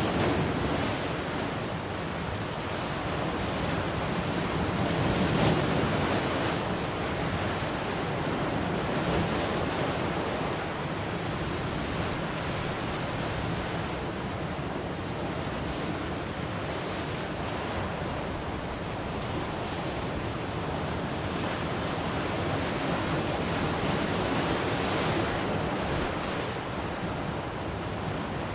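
Ocean surf breaking and washing ashore in a continuous rush, swelling louder about five seconds in and again near the end.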